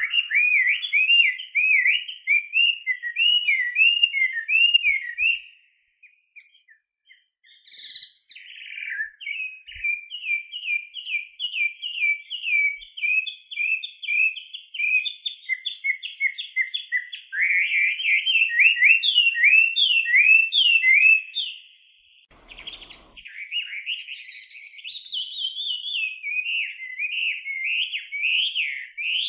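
Chinese hwamei (a laughingthrush) singing a long, loud song of rapid, repeated whistled phrases, each note sliding up and down, with short breaks about six and twenty-two seconds in.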